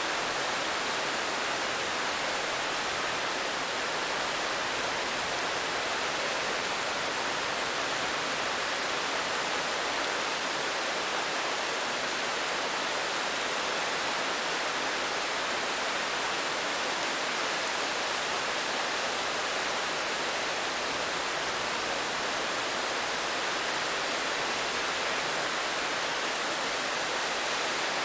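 Steady rain falling: an even, unchanging hiss with no single drops, thunder or other events standing out.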